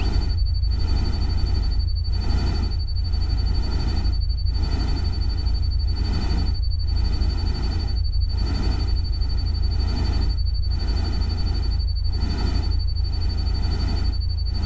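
Steady ambient noise bed with a heavy low rumble and a hiss that swells and fades about every two seconds, with a thin steady high tone over it throughout.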